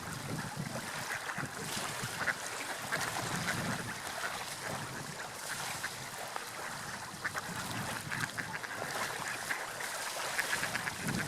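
Water lapping and sloshing: a steady rush with frequent short splashes.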